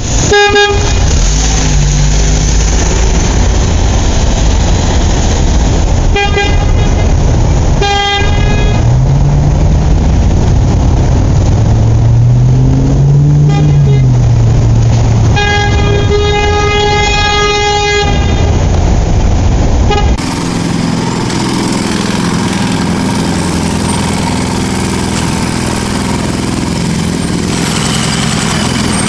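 Heavy vehicle engine running with horn honks: several short blasts, then one long honk of about two seconds, while the engine revs up and back down in between. About two-thirds of the way in it cuts abruptly to a quieter, steady engine running.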